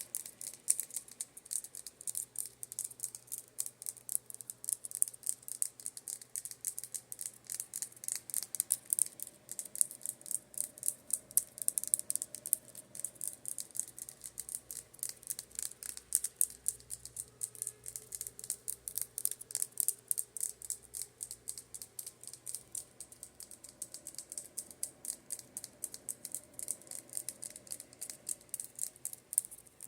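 Rapid, light tapping on makeup brushes, several quick crisp taps a second, with a fan humming faintly underneath.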